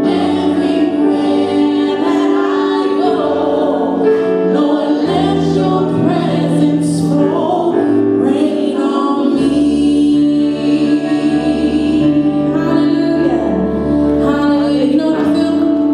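A church praise and worship team singing a gospel worship song in several voices, over steady held chords.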